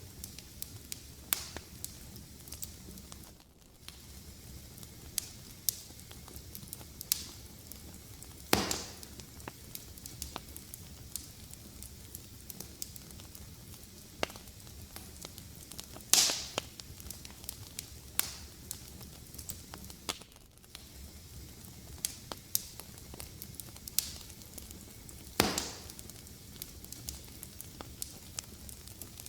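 Fire in a fireplace crackling: a low steady hiss with frequent small snaps and three louder pops spaced roughly eight seconds apart.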